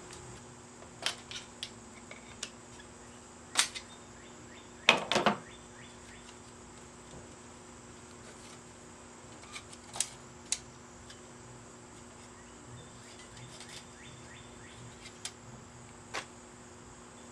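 Scattered clicks and knocks of hand tools working on a rusty steel bicycle rack while its hinge and spring are taken off, loudest in a short cluster about five seconds in, over a steady background hum.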